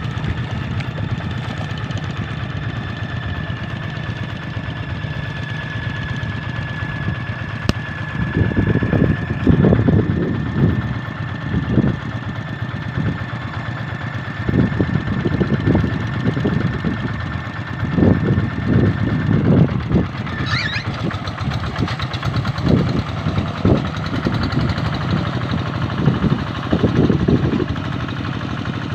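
Single-cylinder diesel engine of a Kubota RD 85 hand tractor running steadily in a rice field. Louder surges come every few seconds, as it works through the mud.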